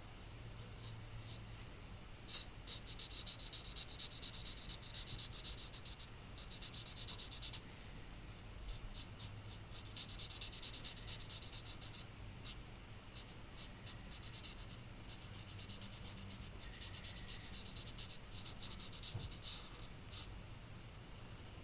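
Stampin' Blends alcohol marker rubbed quickly back and forth on cardstock while colouring, a fine rapid scratching that comes in several stretches of a few seconds each, with short pauses between.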